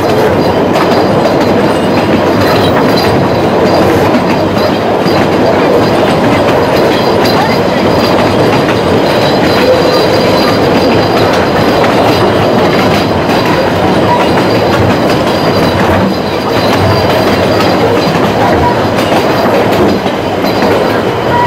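Puffing Billy narrow-gauge steam train running, heard from its carriage: a steady loud rumble of wheels on rails with clicking from the track and a faint thin high squeal from the wheels.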